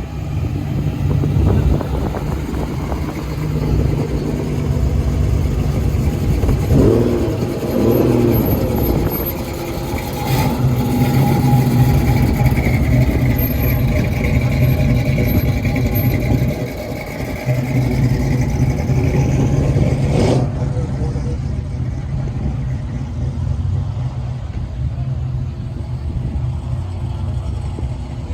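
Car engine running at idle, with its pitch rising and falling in a few revs about seven to nine seconds in, and a sharp knock about twenty seconds in.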